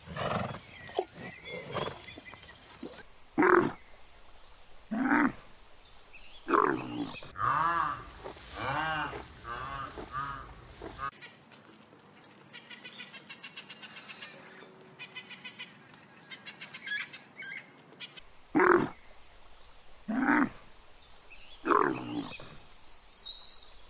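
A series of animal calls from several edited clips: single calls a second or two apart, a run of quick warbling calls in the middle, then a stretch of faint rapid pulsing before more single calls.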